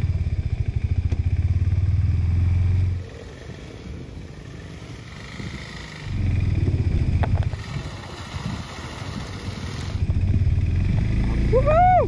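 KTM 390 Adventure motorcycle's single-cylinder engine running at low revs on a muddy trail. It falls much quieter for about three seconds, then picks up again twice.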